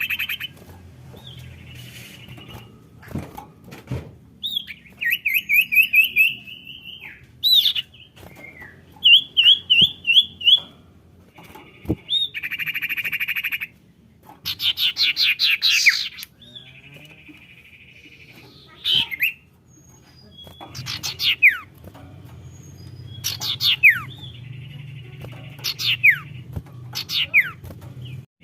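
Common iora (sirtu / cipoh) calls as used in a bird-lure recording: a series of separate phrases with short gaps, mixing buzzy churring trills, quick chattering runs and, in the second half, several sharp falling whistles.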